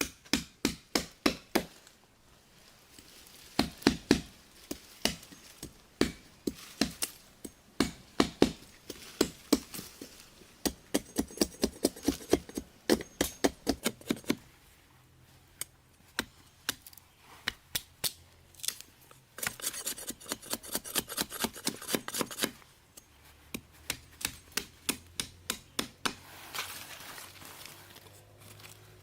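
Chopping with a blade: runs of sharp, quick strikes, several a second, broken by short pauses.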